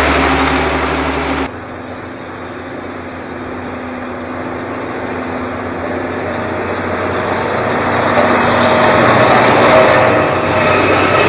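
Heavy Caterpillar diesel earthmoving equipment running under load. The sound changes abruptly about a second and a half in, then the engine noise builds steadily louder.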